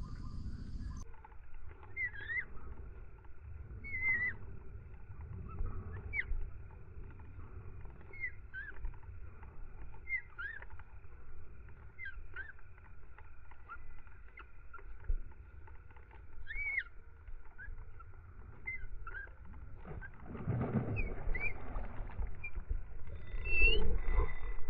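A bird calling over and over, a short chirp about every two seconds, over a faint steady hum and a low wind rumble. Near the end, a louder rustle of handling noise.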